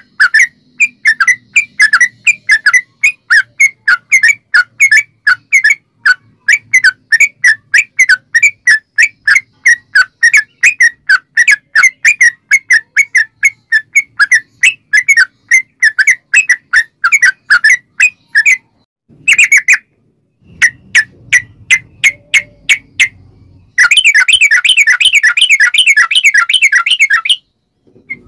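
Yellow-vented bulbul (trucuk) calling in a long run of quick, bubbly notes at about four a second, with a couple of brief breaks. Near the end it speeds into a dense, continuous rolling trill, then stops briefly.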